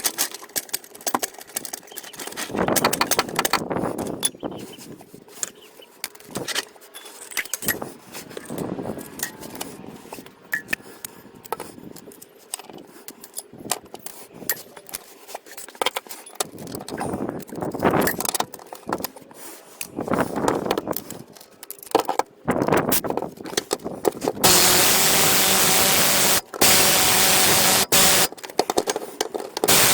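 Metal clinking, clanking and scraping as exhaust parts, bolts and hand tools are handled and fitted under a car. Near the end a loud steady hiss takes over, stopping briefly a few times.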